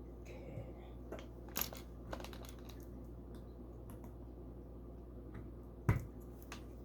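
Small plastic LEGO bricks clicking and clattering as they are handled and sorted, a scatter of light ticks with two louder knocks, one about a second and a half in and one near the end, over a steady low hum.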